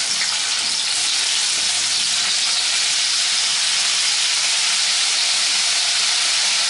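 Blanched broccoli florets frying in hot mustard oil in a kadai: a loud, steady sizzle.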